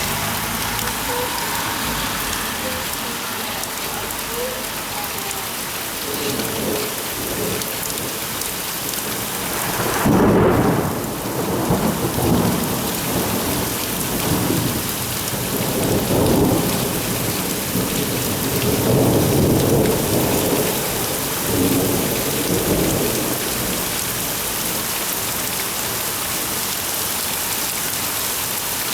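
Heavy rain falling steadily, with a thunderclap about ten seconds in that rumbles on in several rolling waves before dying away.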